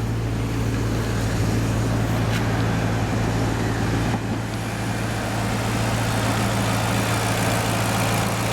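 The Maserati Quattroporte's 4.2-litre naturally aspirated V8 idling steadily and evenly, a constant low hum.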